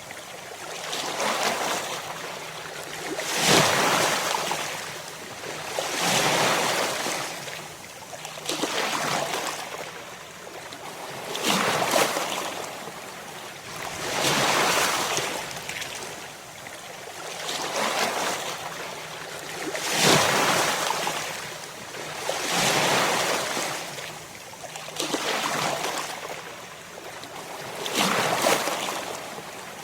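Ocean waves breaking and washing in, a hissing surge that swells and ebbs again every two to three seconds.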